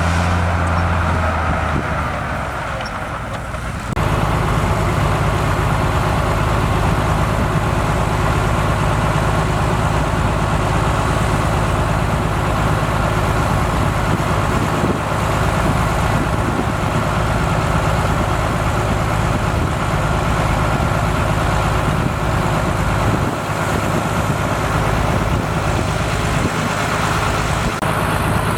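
Heavy diesel engine of earthmoving machinery running steadily with a low hum, changing abruptly in level and pitch about four seconds in.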